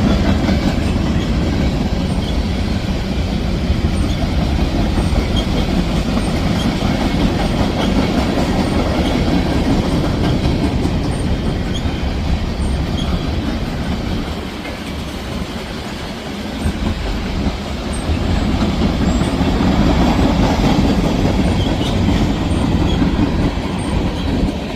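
CSX freight train rolling past: a steady, loud rumble of wheels on the rails that eases briefly about two-thirds of the way through and then builds again.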